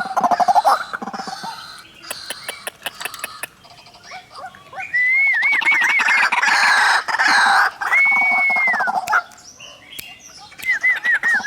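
White-breasted waterhens calling: rapid harsh repeated notes at first, then after a short lull a loud run of quickly repeated arched notes and one long held note that falls away at its end. The arched notes start again near the end.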